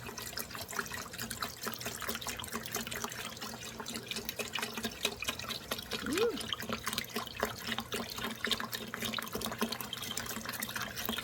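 Beef browning in a cast iron skillet, sizzling and crackling steadily. A brief rising-and-falling squeak comes about six seconds in.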